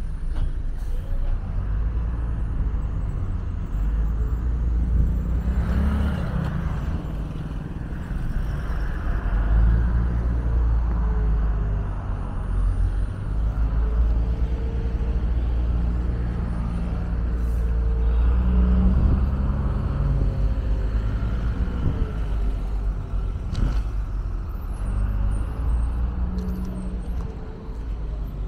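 Street traffic: engines of passing vehicles over a continuous heavy low rumble, with engine hums that rise and fade as vehicles go by.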